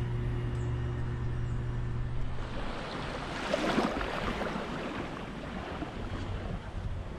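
Surf and wind: after a steady low hum that cuts off about two and a half seconds in, a wave breaks with a rising rush about three and a half seconds in. Steadier wave wash and wind on the microphone follow.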